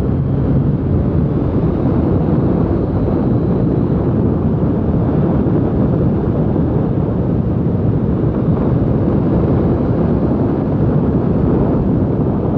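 Motorcycle riding at a steady, easy pace: a continuous rush of wind over the microphone with the engine running underneath.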